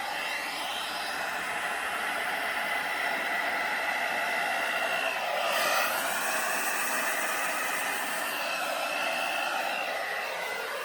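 Handheld hair dryer running on its low setting: a steady rush of air with a high whine. About halfway through, the whine dips in pitch and recovers, and the air noise briefly gets louder.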